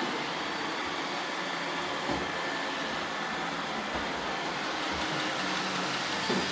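Several iRobot Roomba robot vacuums running with a steady whir of motors and brushes, with a few soft knocks about two seconds in, about four seconds in and near the end.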